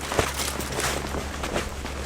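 Footsteps walking, a few steps a second, over a steady low hum.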